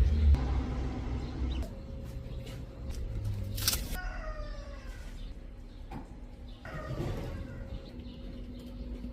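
A bird calling outdoors in a few short falling calls, with a sharp knock just before the first of them.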